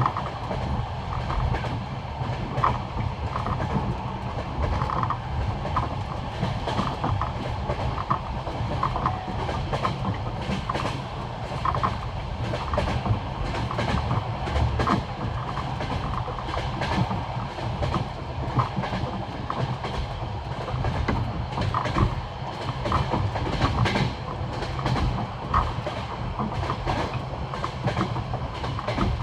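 Train carriage wheels clacking over the rail joints of old jointed (non-welded) track: the classic clickety-clack, in quick sets of knocks over a steady low rumble of the running carriage.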